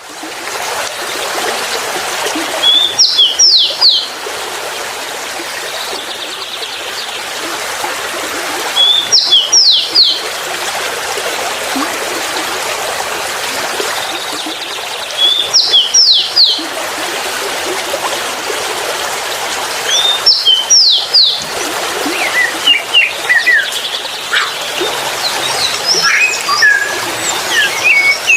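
A songbird repeating a short, high phrase of a few quick falling whistled notes about every six seconds, over a steady rush of running water. Toward the end, a busier run of scattered chirps from more birds takes over.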